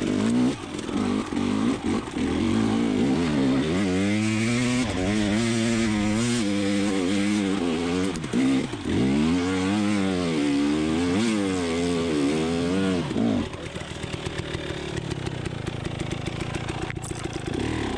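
2020 KTM 300xc TPI's single-cylinder two-stroke engine revving up and down in pitch as the dirt bike is ridden, then dropping to a lower, steady idle about thirteen seconds in.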